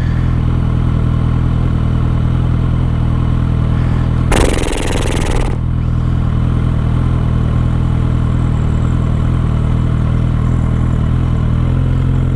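Suzuki GSX650F inline-four motorcycle engine idling steadily. About four seconds in comes a loud rush of noise lasting a little over a second.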